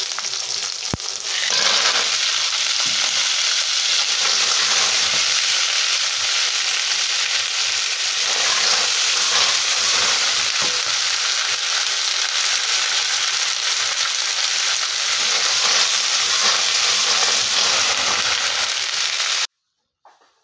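Lemongrass, garlic and red chilies frying in hot oil in a wok, a loud steady sizzle as they are stir-fried; it cuts off suddenly near the end.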